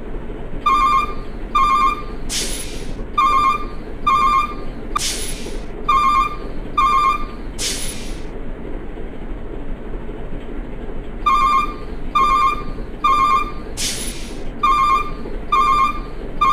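Short, high electronic beeps like a ringtone, about one a second in runs, broken by a few sharp whooshes, over a steady low rumble of toy truck wheels rolling on concrete.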